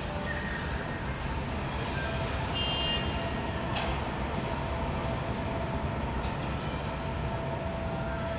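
Steady low rumbling background noise with a few faint, short high-pitched tones over it.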